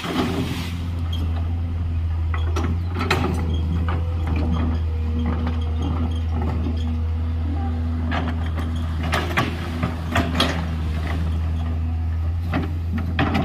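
Excavator's diesel engine running steadily under work, with scattered sharp metallic clanks and knocks from the machine.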